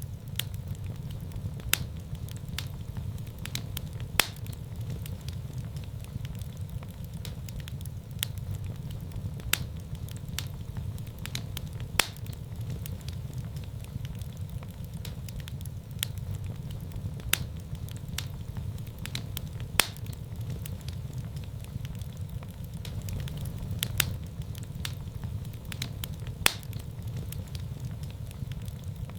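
Wood fire burning in a fireplace: a steady low rumble of flames with frequent sharp crackles and pops, a few louder snaps every couple of seconds.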